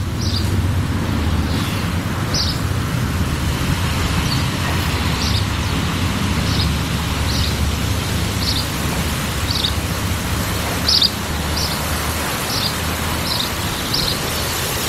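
Outdoor ambience: a steady low rumble and hiss, with a small bird giving short high chirps about once a second throughout.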